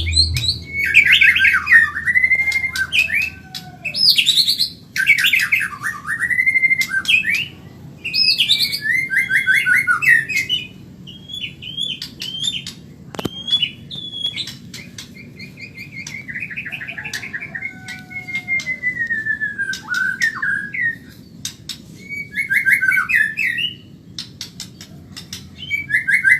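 White-rumped shama (murai batu Medan) singing, phrase after phrase of rapid trills and whistles with short pauses between them. A faint steady low hum lies underneath.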